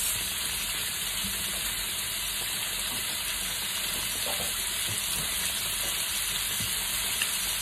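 Pork pieces with onion and garlic sizzling in a hot wok, a steady frying hiss just after soy sauce has been poured in.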